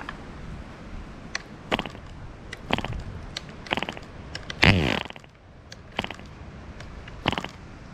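2.5 cc MARZ (MAP3) diesel model airplane engine firing in short, irregular sputters, roughly once a second, rather than running steadily. A louder burst about halfway through falls in pitch as it dies away.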